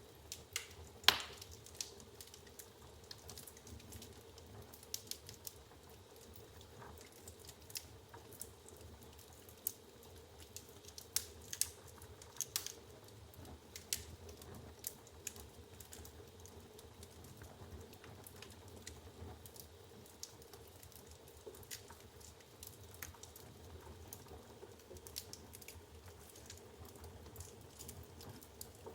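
Firewood burning in an open fireplace, crackling with irregular sharp pops and snaps over a soft, steady low rush of the flames. The loudest pop comes about a second in.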